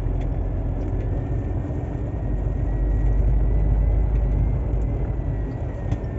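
Shacman truck's diesel engine running in a low gear, heard from inside the cab, with a faint steady high whine. The engine noise swells a little about halfway through.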